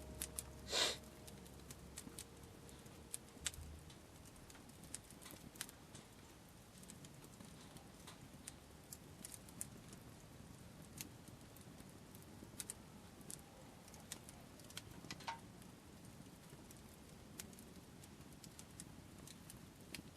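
Wood campfire crackling, with sparse irregular snaps and pops and one louder burst about a second in.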